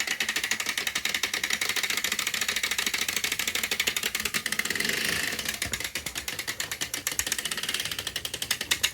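Battery-powered toy train engines running, their small motors and plastic gears making a rapid, even clicking whir.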